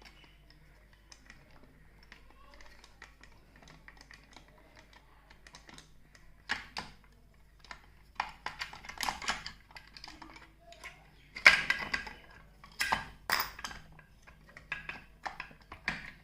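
Small clicks, taps and knocks of a plastic diaphragm air pump being taken apart by hand as its long housing screws are undone. It is faint and scattered at first, with louder sharp knocks from about halfway through.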